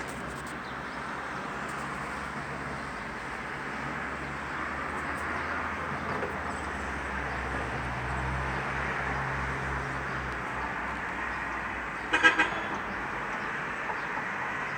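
Steady street traffic noise with a vehicle passing low in the middle, and a short car horn toot in two or three quick pulses about twelve seconds in.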